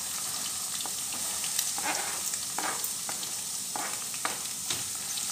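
Chopped onion tipped into hot ghee in a pan, frying with a steady sizzle and a scatter of short taps and scrapes as the pieces land and are pushed off the cutting board.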